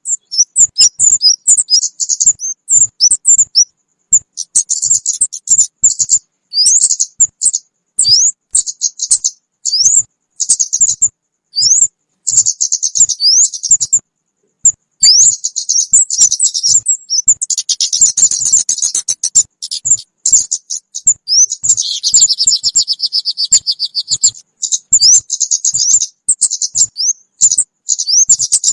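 Lure-call recording of the kemade, a small bird: fast runs of high-pitched chirps and quick upslurred notes with brief gaps between them. A harsher buzzing trill comes in about two-thirds of the way through, and a dense lower trill follows a few seconds later.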